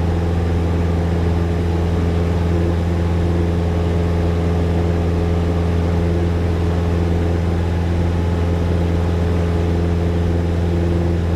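Single-engine Cessna's piston engine and propeller running at full climb power just after takeoff from a touch-and-go: a steady, deep drone that holds one pitch.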